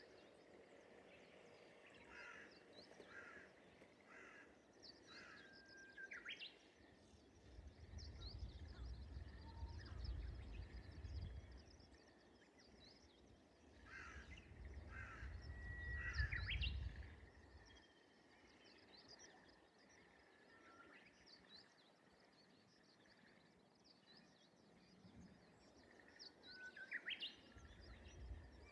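Japanese bush warbler (uguisu) singing its 'hoo-hokekyo' song three times, each a held whistle breaking into a quick rising flourish, the first two after a run of short notes. Faint high twittering of small birds runs throughout, under a low rumble that swells now and then.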